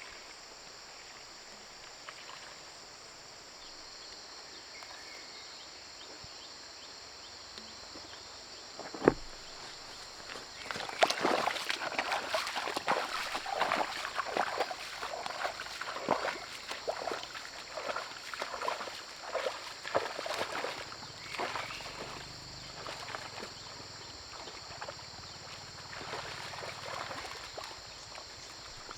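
Crickets chirring steadily throughout. About eleven seconds in, sloshing footsteps through wet ground or shallow water begin and keep on irregularly, after a single sharp click a little earlier.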